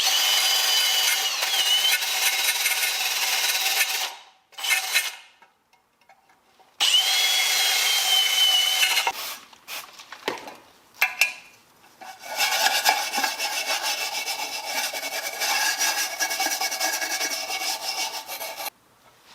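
A small handheld power tool abrading or scrubbing a hard surface in three long runs, its motor whine dipping in pitch as it bears down, with short clicks and handling noise in the pauses.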